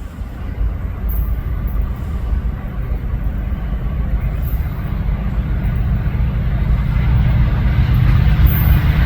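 Diesel locomotives of an approaching CSX freight train, a deep engine rumble growing steadily louder as the train nears.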